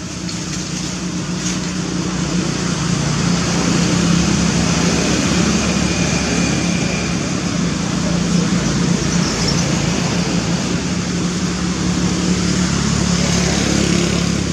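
A motor running steadily with a noisy rush over a low hum, growing louder over the first few seconds and then holding.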